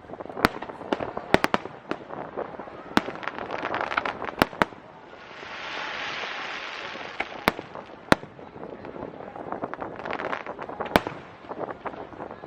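Aerial fireworks shells bursting in a rapid barrage: sharp bangs over continuous dense crackling, with a steady hiss for about two seconds near the middle.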